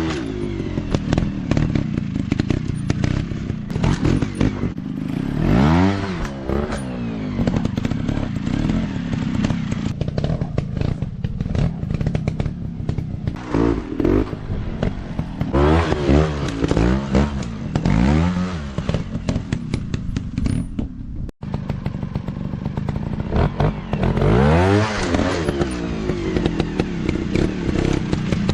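Small dirt-bike engines riding off-road, revving up and easing off again and again in rising and falling sweeps of pitch, with clattering and knocking over rough ground. The sound cuts out for an instant about two-thirds of the way through.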